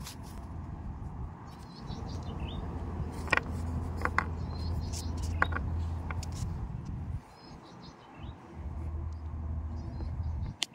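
Birds chirping in the background over a steady low rumble, with a few sharp clicks near the middle. The rumble drops away for a few seconds about two-thirds through.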